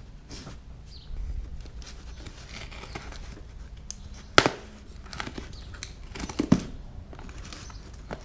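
A shipping package being handled and torn open: rustling and crinkling of the packaging, with a sharp snap about four and a half seconds in and another about two seconds later.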